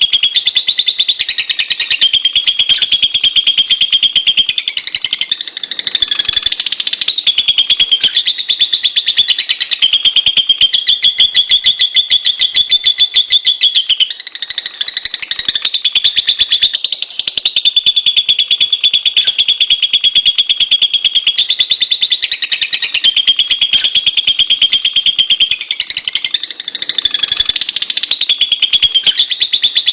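Lovebird giving a loud, continuous, very rapid high-pitched chattering trill, broken only by brief dips a few times.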